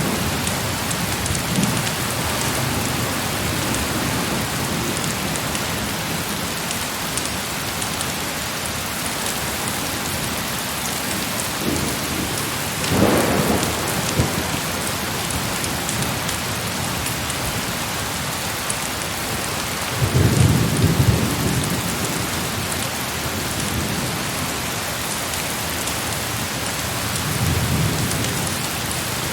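Heavy rain falling in a steady hiss, with rolls of thunder over it. A sharper thunderclap comes about halfway through, and longer low rumbles follow about two-thirds of the way in and near the end.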